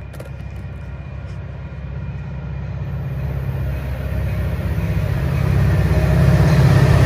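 Caltrain passenger train approaching at speed behind a diesel locomotive, its low engine and wheel rumble growing steadily louder as it nears, loudest near the end.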